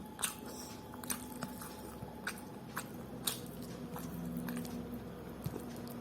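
Close-miked chewing of rice and curry, with wet mouth sounds and a few sharp clicks, over a faint steady hum.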